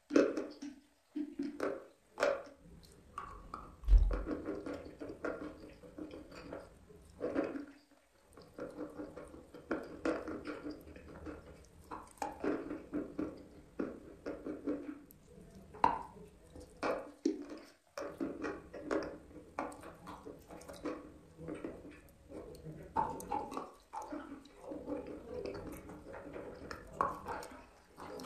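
A person chewing soft, wet chalk with smacking, sticky clicks of the lips and tongue.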